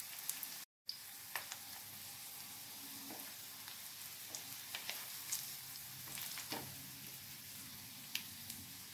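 Hot oil sizzling steadily around rice-and-gram-flour cutlets shallow-frying in a pan, with scattered small pops and clicks. The sound briefly cuts out under a second in.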